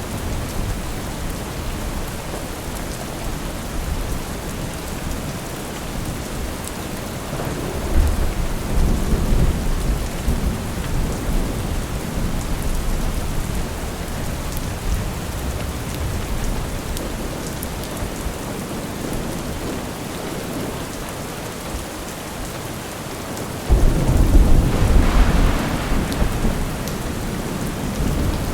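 Steady rain with thunder: a low rumble of thunder about eight seconds in, and a louder roll that breaks in suddenly near the end and fades over a few seconds.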